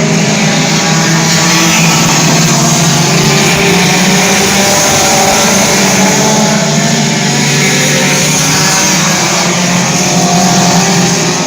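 Several race car engines running hard at once, a steady, loud mix of engines with pitches that shift slightly as the cars go around the track.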